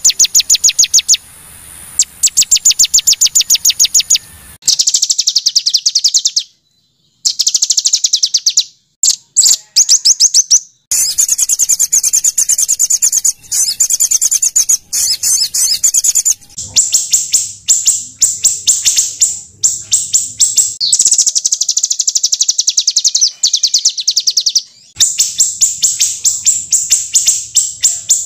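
Small songbird giving harsh, rapid-fire chattering song: very fast runs of sharp, high notes in bursts of a few seconds with short breaks between. It is the 'tembakan kasar' (rough rapid-fire) style of song used as masteran for training white-rumped shamas.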